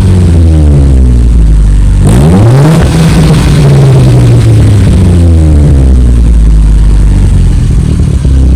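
The 2012 Chevrolet Utility 1.4's four-cylinder petrol engine running through a new 50 mm stainless steel exhaust with a mini cat, which has a deep tone. The revs fall, a sharp blip comes about two seconds in, then they sink slowly back toward idle.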